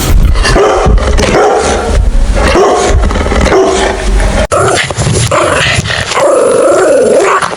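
Puppies barking and yipping in repeated pitched cries, with a low rumble under the first half that stops abruptly about halfway through.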